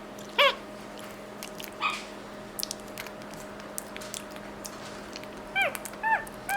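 Capuchin monkey giving short squeaky calls that rise and fall in pitch, one near the start, another about two seconds in and three in quick succession near the end, while chewing a mushy banana with wet smacking clicks between the calls.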